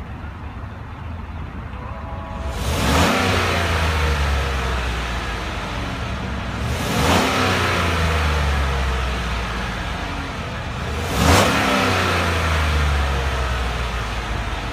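2016 Chevrolet Tahoe's 5.3-litre V8 idling and revved three times, about four seconds apart, each rev climbing quickly and then dropping back to idle.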